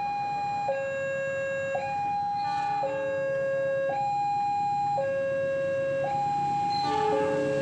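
Railway level-crossing warning alarm sounding a two-tone high-low signal, each tone held about a second, warning that a train is approaching. A low rumble grows under it near the end.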